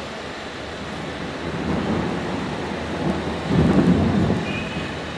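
Steady heavy rain with a low rumble of thunder that swells about a second and a half in and is loudest just past the middle.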